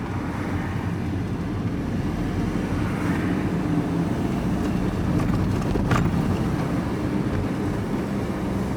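Steady engine and road noise heard from inside a moving vehicle, a low hum with a single short click about six seconds in.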